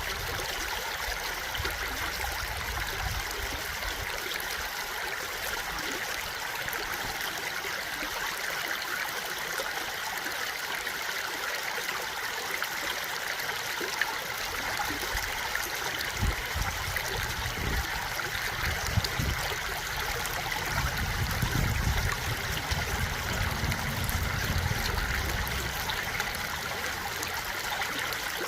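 A stream flowing steadily over rocks, a continuous even rush and trickle of water. Low rumbles come and go about halfway through and again near the end.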